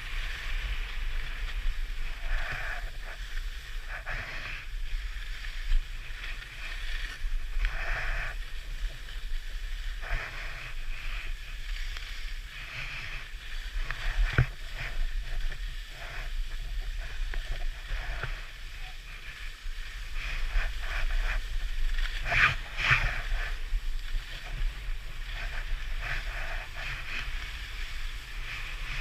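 Skis scraping and carving over packed snow at speed, the hiss swelling and fading with each turn, over wind buffeting the camera microphone. There is a sharp knock about halfway through and another about three quarters of the way through.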